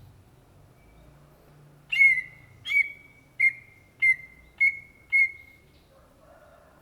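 Greater green leafbird (cucak ijo) singing: a run of six loud, clear whistled notes, each opening with a quick downward sweep and then held briefly, at about one and a half notes a second.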